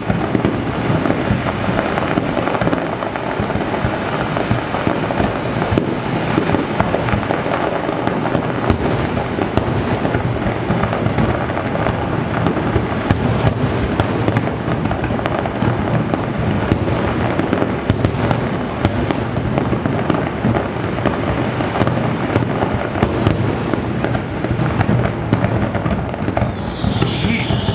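Finale of an aerial fireworks display: a continuous, dense barrage of overlapping shell bursts and crackling with no gaps, echoing across the harbour waterfront.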